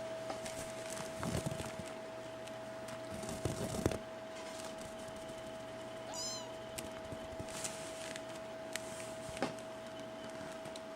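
A kitten gives one short, high-pitched mew about six seconds in. Before it come a couple of rustling thuds, the loudest sounds here, and a steady high hum runs underneath.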